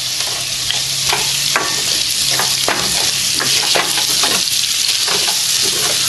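Potatoes and ginger-garlic paste sizzling in hot oil in a stainless steel pot, while a wooden spoon stirs them with many short scrapes and knocks against the pot.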